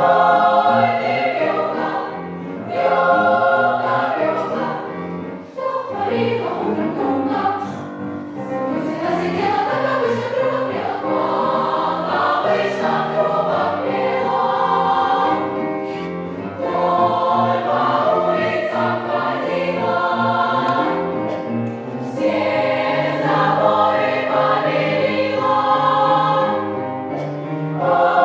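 A choir singing a song in several parts, with sustained sung notes changing from phrase to phrase.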